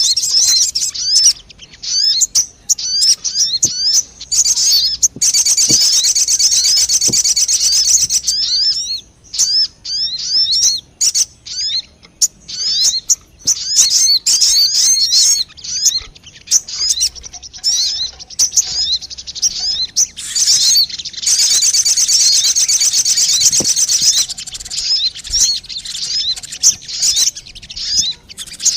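Sogon bird lure-call recording: rapid, high-pitched chirps and trills in long bursts with short breaks.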